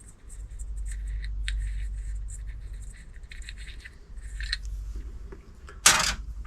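Irregular light metallic clicks and scrapes of hand tools working on the electric compressor's just-loosened shaft nut, with one short, louder clatter near the end.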